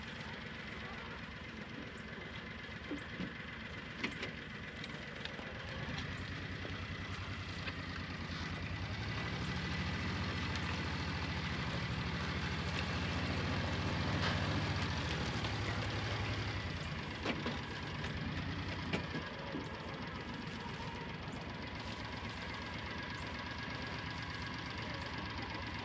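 An engine running steadily at idle, its low pulsing drone getting louder for about ten seconds in the middle and then easing back.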